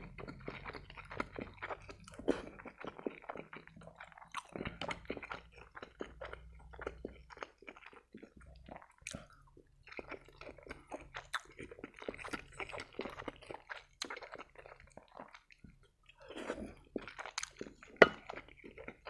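Close-miked chewing of boiled pelmeni dumplings dipped in sauce: a steady run of short mouth clicks and chewing sounds. Near the end there is one sharp, loud click as the fork meets the sauce bowl.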